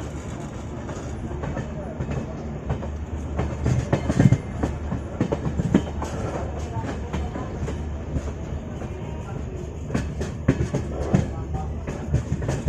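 Passenger express train running along the track, heard from on board a coach. A steady low rumble carries irregular sharp clicks and knocks of the wheels over rail joints, busiest about four seconds in and again near the end.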